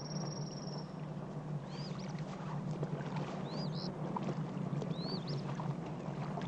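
Outdoor river ambience: a steady low hum under a soft wash of noise, with a bird giving three short rising-and-falling chirps about a second and a half apart. A thin, high, steady trill stops about a second in.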